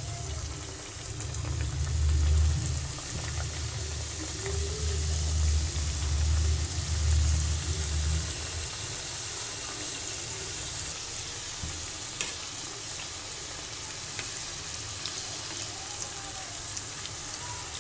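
Paneer samosas deep-frying in hot oil, a steady sizzle. A low rumble runs under it and stops about eight seconds in.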